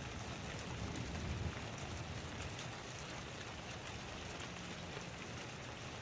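Heavy rain falling steadily, with a low rumble in the first second or two that eases off.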